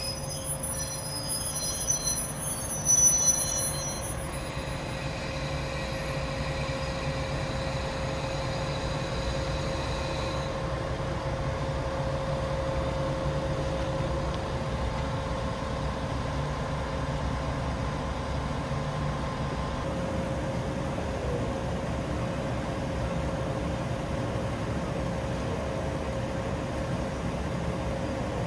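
A JR West 381 series electric train standing at a station platform, its onboard equipment humming steadily with one clear steady tone over a low drone. A few brief louder sounds come in the first few seconds, the loudest about three seconds in.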